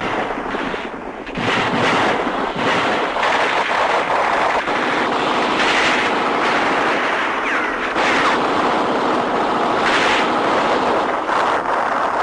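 Battle noise: a dense run of gunfire and blasts over steady engine noise, growing louder about a second in.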